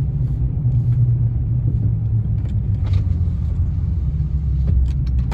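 Dodge Ram pickup, towing a loaded gooseneck trailer, heard from inside the cab: a steady low engine and road rumble that falls in pitch as the truck slows on the freeway exit.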